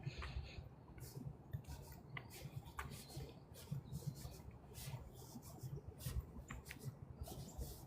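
Footsteps crunching and rustling through dry fallen leaves: irregular faint crackles over soft low thuds.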